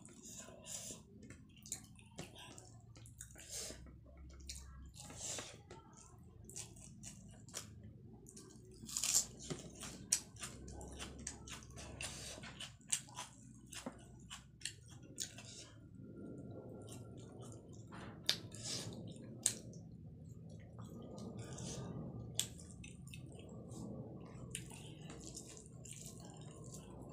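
Close-miked eating sounds of a person eating rice, dal and fried fish with the hand: chewing and wet mouth smacks with sharp clicks now and then, and soft squelches of fingers mixing rice.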